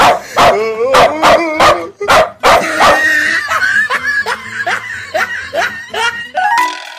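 Recorded dog barking played loudly through a Bluetooth speaker: a quick string of barks, then a run of short, high, falling yelps. A short rising chime tune begins near the end.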